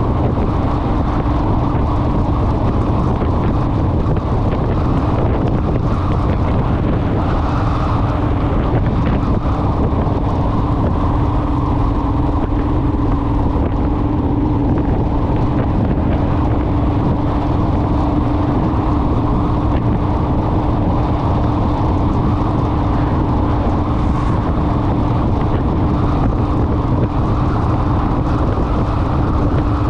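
Honda Rebel parallel-twin motorcycle cruising at steady speed, its engine a constant drone under heavy wind rush on the microphone.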